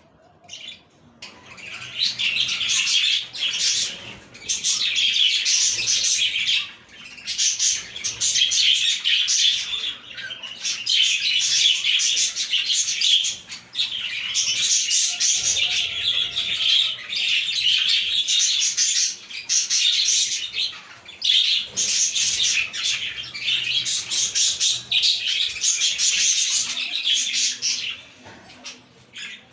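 Budgerigars warbling and chattering together, a dense run of high, fast chirps with short breaks. It starts about a second in and stops shortly before the end.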